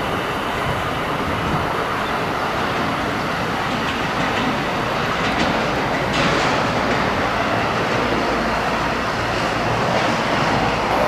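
A two-car 521 series electric train running out of the station, a steady rolling noise with wheels clattering over the rail joints.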